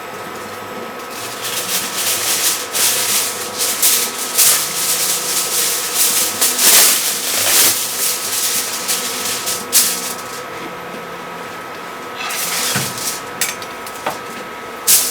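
Sheet of aluminium foil being pulled off the roll and handled, crinkling and rustling in quick bursts. The rustling is busy from about a second in until about ten seconds, then comes back briefly near the end.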